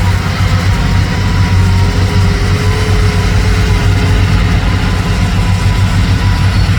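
Heavy truck's diesel engine running steadily at low revs, with a faint steady whine above the engine note.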